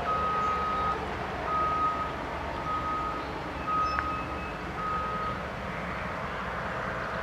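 A vehicle backup alarm beeping: five steady high-pitched beeps about once a second that stop about five seconds in, over a constant low rumble.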